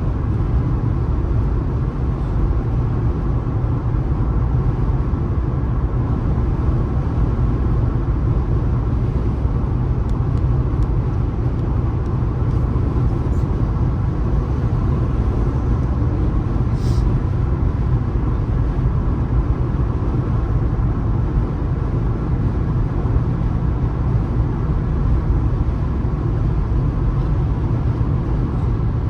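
Steady road and engine noise of a car being driven, a continuous low rumble with no changes in speed or load.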